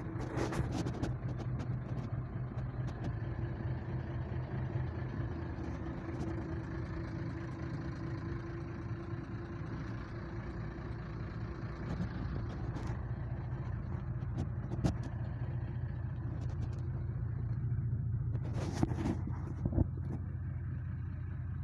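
An engine running steadily with an even low hum, a few sharp clicks sounding over it.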